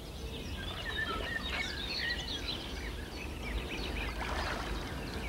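Several birds singing, many short chirps and whistles overlapping, over a steady low rumble.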